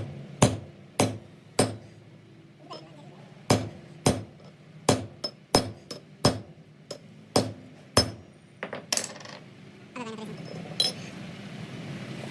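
Sharp hammer blows on metal, roughly two a second in two runs with a short pause between, each ringing briefly. About ten seconds in, a steady machine running noise comes in.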